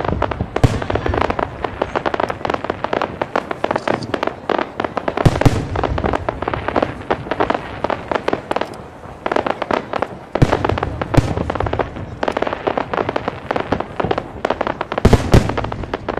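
Fireworks display: dense, rapid crackling and popping of bursting shells, with heavier bangs about five, ten and fifteen seconds in.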